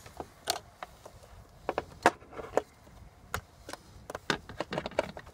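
A series of irregular clicks and light knocks, the sharpest about two seconds in and several close together near the end.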